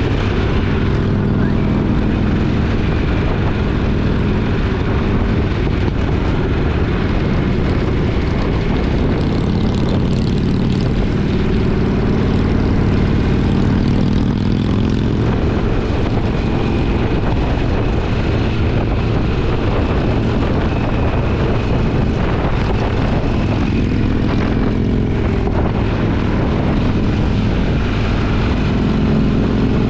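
A twin-cylinder motorcycle engine running under way at cruising speed, its exhaust note slowly rising and falling with the throttle, over steady wind and road noise.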